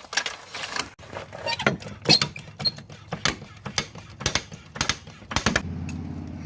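A run of sharp metallic clicks and knocks, roughly one to two a second, as a trolley jack is pumped to raise a car. About five and a half seconds in they give way to a steady low hum.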